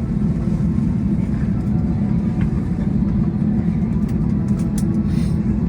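Steady low drone inside the cabin of an Airbus A321neo during push-back, with a few faint clicks about four to five seconds in.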